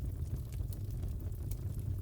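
Crackling fireplace: a steady low rumble of the fire with irregular sharp snaps and pops from burning wood.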